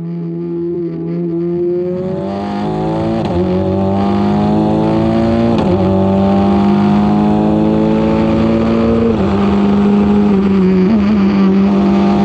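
Formula 4 open-wheel race car's engine accelerating at high revs, its pitch climbing steadily and breaking at gear changes about three and six seconds in, growing louder over the first few seconds.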